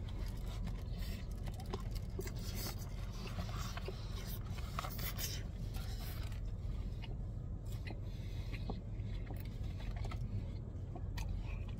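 A person chewing a mouthful of sandwich, with scattered faint clicks and scraping from handling the food and its takeout container, over a steady low hum inside a car's cabin.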